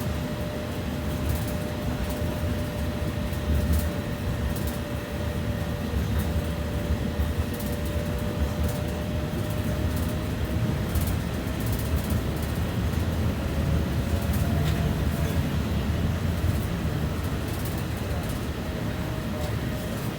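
BKM 60102 tram running between stops: a steady low rumble of wheels on rail with a thin motor whine over it, which shifts slightly in pitch about two-thirds of the way through.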